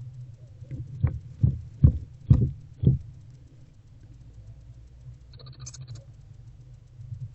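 Five dull thumps about half a second apart inside a wooden barn owl nest box, made by a barn owlet moving about as it feeds on a rodent, over a steady low hum.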